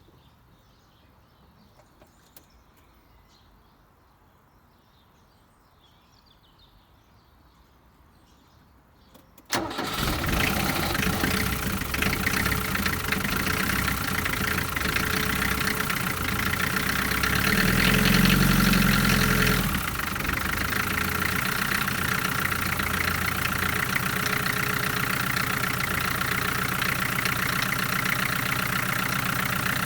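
A diesel engine starts abruptly after several seconds of near quiet and settles into a steady idle. Just past halfway it runs louder for about two seconds, then drops back to idle.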